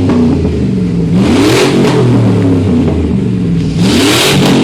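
Car engine revved twice, the pitch climbing and falling back each time, with a rush of hiss at the top of each rev.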